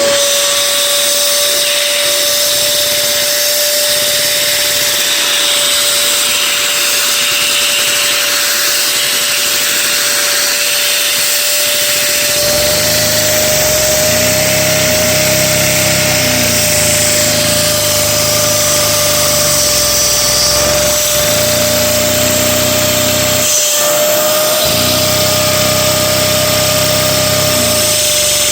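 Small single-cylinder Lego vacuum engine running at high revs, a steady mechanical whir with a strong high whine. About halfway through, a lower hum joins it. The hum comes and goes a few times.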